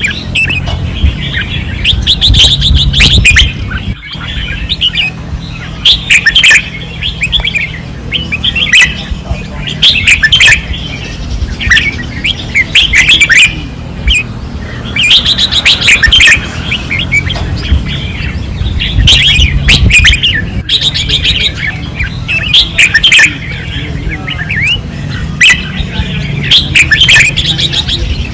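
Red-whiskered bulbuls singing vigorously, with short, loud song phrases every second or two and several birds overlapping, over a steady low rumble.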